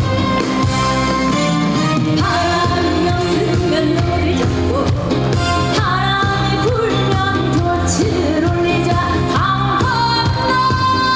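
A woman singing a Korean folk-song (minyo) medley live over an amplified backing track with a steady beat, holding long wavering notes.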